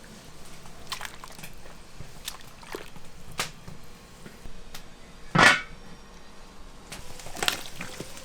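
Kitchen handling noise: scattered light clicks and knocks, with one loud sharp knock about five seconds in.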